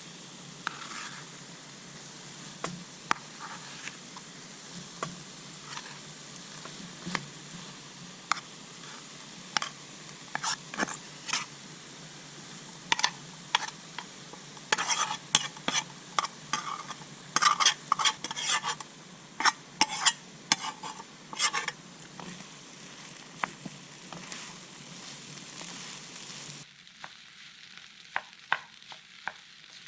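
Garlic rice sizzling as it fries in a pan over a wood fire, with a spatula scraping and clacking against the pan as it is stirred, busiest in the middle. The sizzle drops away suddenly near the end.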